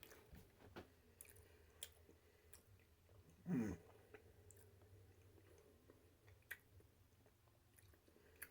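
Faint mouth sounds of someone chewing a soft, sticky caramel fudge brownie cookie: scattered small smacks and clicks, with a short hum of the voice about three and a half seconds in.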